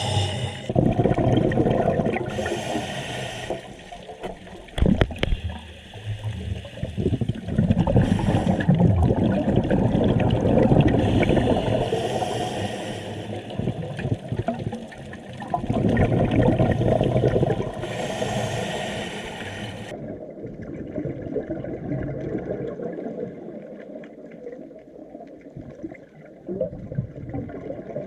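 Scuba diver breathing through a regulator underwater: a short hiss on each inhale, then a long bubbling rumble of exhaled air, in a slow cycle repeating every several seconds.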